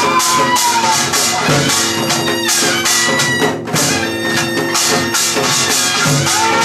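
Korean folk dance music: a reedy wind instrument holding notes and sliding downward, over steady drum and metal gong strokes in a driving rhythm.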